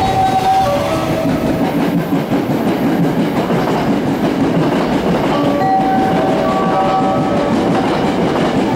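Freight container train running past, a steady loud rumble of its wagons on the rails. A few high steady tones sound briefly at the very start and again from about five to seven seconds in.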